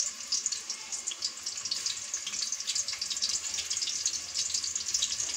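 Raw beef-mince kebabs sizzling and crackling as they shallow-fry in hot ghee, with a steady hiss under a dense patter of fine crackles.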